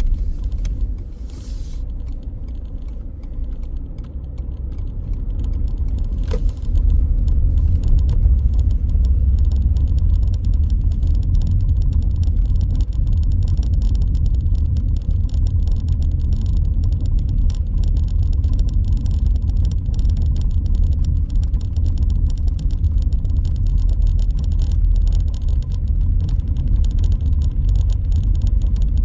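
Car driving through city streets: a steady low rumble of road and engine noise. It grows louder about six seconds in, just after a brief click.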